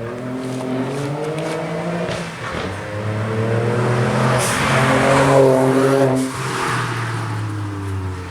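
Ford Fiesta ST Mk7's turbocharged 1.6-litre EcoBoost four-cylinder accelerating hard through the gears: the exhaust note climbs, then drops at an upshift about two seconds in and again about six seconds in. It is loudest about five seconds in.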